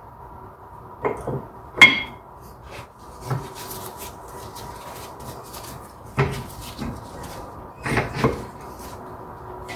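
Scattered metallic knocks and clanks of tools and parts being handled during brake work, about six in all, the loudest a ringing clank just under two seconds in and a close pair near the end.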